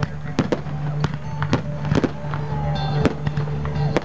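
Fireworks display: aerial shells bursting overhead, a sharp bang roughly every half second at irregular spacing.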